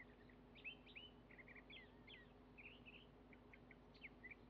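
Near silence with faint birds chirping: many quick, high chirps and short gliding notes throughout, over a faint steady low hum.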